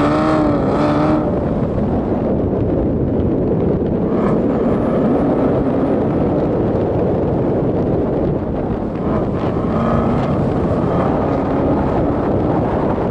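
Chevrolet Corvette C7 Z06's supercharged V8 on track, its note rising as it accelerates in the first second, then mostly covered by steady wind rush on the microphone, with the engine note climbing again about nine to twelve seconds in.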